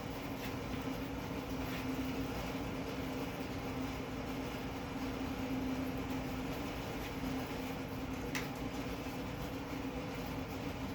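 Steady mechanical hum holding one constant pitch over a low rumble, with a single sharp click about eight seconds in.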